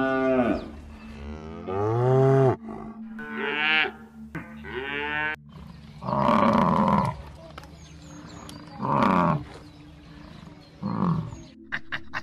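Cattle mooing, about four calls in the first five seconds, some low and some higher and bawling like a calf. Then a bison grunting three times, hoarse, low grunts a couple of seconds apart.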